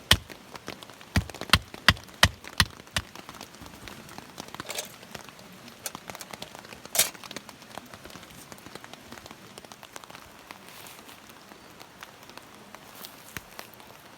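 Steady rain falling, with scattered drops tapping. A quick run of sharp knocks fills the first couple of seconds, and a single louder tap comes about halfway through.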